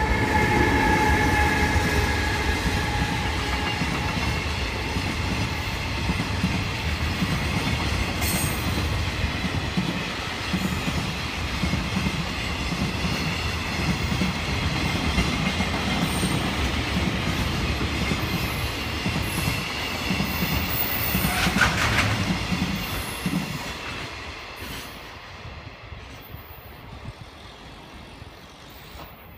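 A long container freight train behind a JR Freight EH500 electric locomotive passing at speed: a steady, loud rumble of wheels on the rails, with high steady tones near the start and a brief high squeal about 22 seconds in. The sound fades away over the last several seconds as the end of the train passes.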